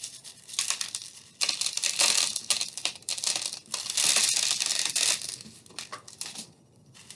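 Crinkling and rustling as crinkly material is handled, in two longer stretches with short crackles between.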